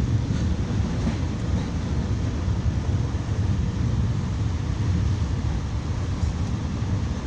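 Steady low rumble of a Metrolink commuter train's passenger coach running at speed, heard from inside the car.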